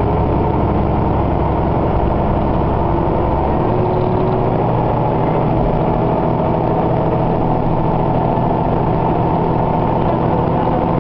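Diesel railcar running, heard from inside the passenger cabin: a steady engine drone under wheel and track noise. The engine note changes about a third of the way in.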